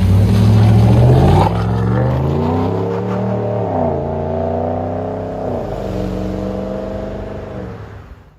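Ram 1500's 5.7L Hemi V8 through a Black Widow Venom race muffler, heard from inside the cab, accelerating: its pitch climbs, drops sharply at two upshifts, then holds steady before fading out near the end.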